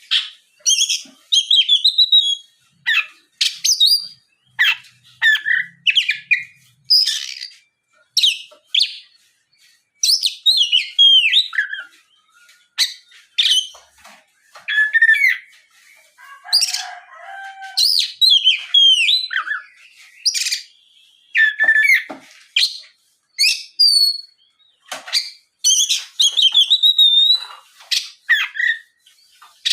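Oriental magpie-robin singing in full voice: a continuous run of short, varied, high whistled and chirping phrases with brief gaps between them.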